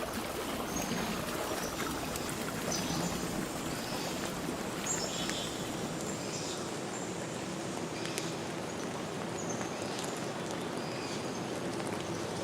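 Clear forest stream flowing steadily over rocks, a constant rush of water, with a few short high notes scattered through it.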